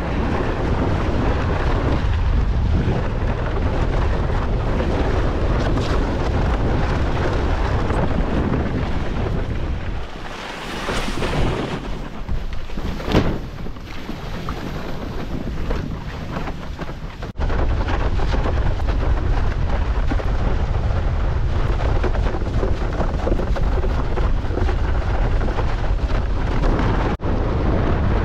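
Wind buffeting a windsurfer's action-camera microphone, a heavy rumble mixed with rushing water. For several seconds in the middle the rumble eases and hissing spray takes over, with one sharp splash. The sound cuts abruptly twice near the end.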